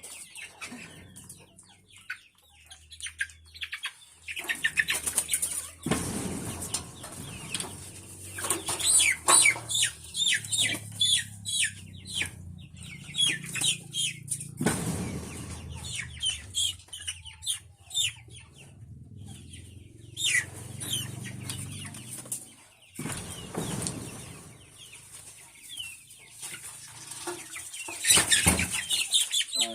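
A flock of chickens clucking and peeping, with several brief bursts of wing flapping.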